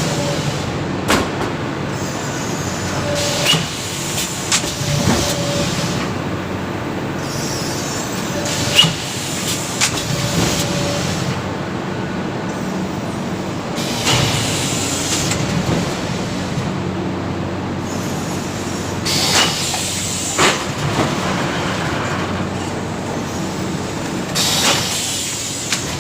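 PS foam plate and dish forming machine running: a steady mechanical din with repeated knocks and clatters, several short bursts of hiss, and a few brief high tones.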